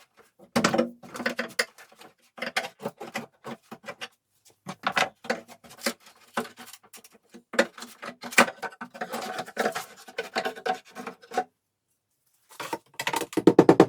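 Hand scraping and rubbing on wood in quick, irregular strokes, stopping briefly near the end.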